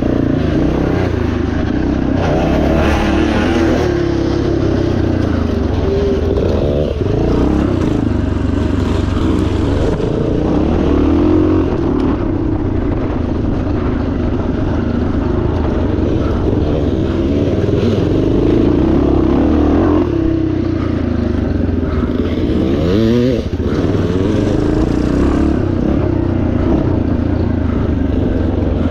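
1977 Yamaha TT500's single-cylinder four-stroke engine being ridden hard off-road, its revs rising and falling again and again as the throttle is worked.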